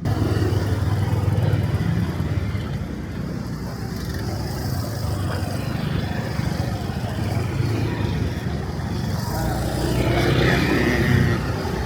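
Street traffic noise with passing motor vehicles: a steady low rumble that starts suddenly at a cut, with a short pitched sound near the end.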